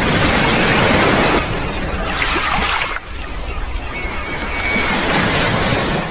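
Rushing, splashing sea water with a steady noisy wash. The sound changes abruptly twice, and a faint high whistle is heard about four seconds in.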